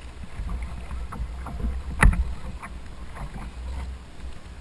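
Water sloshing and lapping against a kayak hull over a low rumble, with scattered small splashes and one sharp knock about two seconds in.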